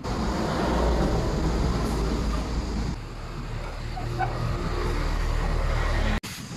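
A heavy vehicle engine running with a deep, steady hum. It changes in character about halfway through and cuts off abruptly near the end.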